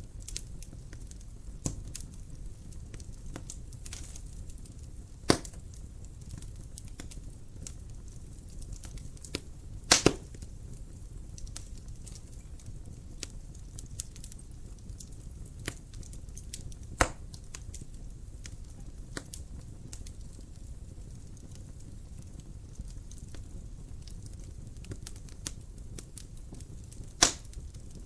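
Wood fire crackling in a fireplace: a steady low rumble of flames under scattered sharp snaps, with a few much louder pops spread through.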